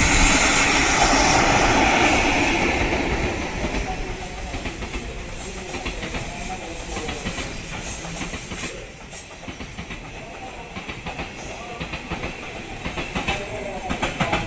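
Freight train of Chiki flat wagons loaded with long rails rolling past behind an EF65 electric locomotive, wheels clacking over rail joints. It is loudest for the first few seconds, then quieter, with bursts of sharp clicks near the end.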